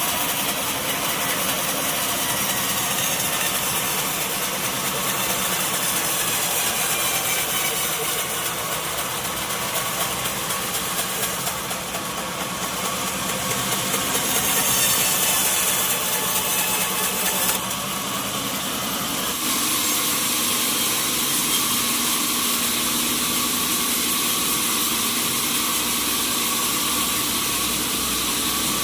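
Sawmill machinery running steadily, a motor-driven saw working through a log. About halfway through, a louder, hissier stretch lasts a few seconds, then cuts off suddenly.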